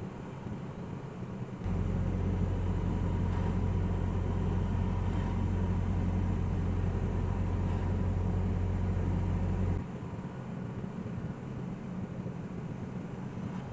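Steady road and engine noise of a semi-truck heard in the cab while driving. A loud, steady low drone comes in suddenly about two seconds in and cuts off suddenly about ten seconds in.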